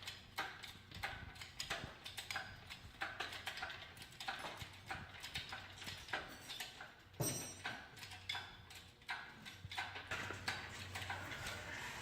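Hand tools and metal engine parts clicking and knocking irregularly, a few times a second, over a faint steady low hum.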